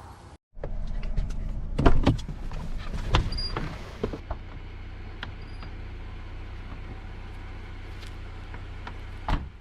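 A vehicle engine running with a steady low hum, with a run of sharp clicks and knocks about two to four seconds in and another knock near the end.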